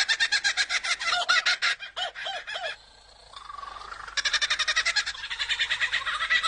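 Lyrebird singing a mimicked call: a fast run of repeated notes, a short break with a rising whistle about three seconds in, then the fast repeated notes again.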